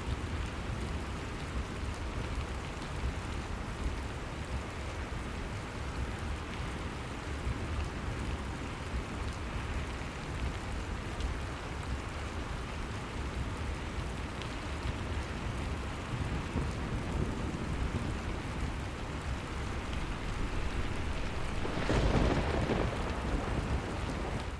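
Steady rain falling and pattering on surfaces, with a louder swell and low rumble near the end.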